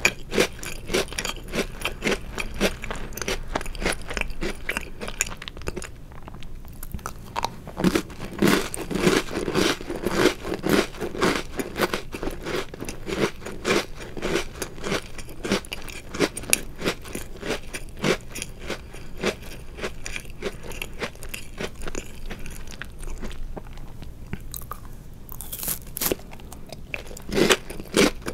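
Close-miked chewing of chocolate-covered Oreo cookies: rapid crunching and crackling bites of the crisp cookie and chocolate coating.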